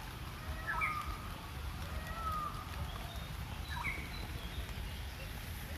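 Wild birds calling: short whistled notes and quick sweeping chirps repeated every second or few seconds, over a steady low rumble.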